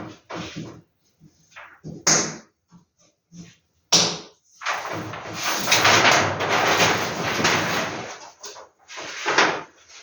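Vintage paper movie posters being handled: scattered short rustles and taps, a sharp snap about two seconds in and another about four seconds in, then about three seconds of continuous loud paper rustling.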